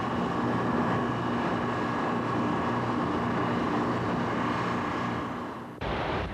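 Steady engine drone with a hum of several even tones under a rushing noise, cut off abruptly near the end by a different rush of noise.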